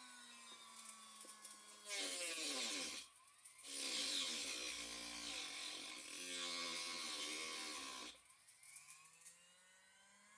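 Small handheld power tool motor running in on-and-off bursts, its whine rising as it speeds up and falling as it winds down. It is loudest in two runs, a short one about two seconds in and a longer one from about four to eight seconds.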